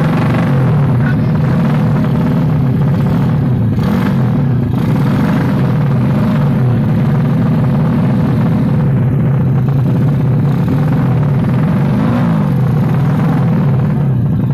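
Yamaha Jupiter underbone motorcycle engine running loudly and steadily, its pitch wavering gently with the throttle. There is a brief rise and fall in revs about twelve seconds in.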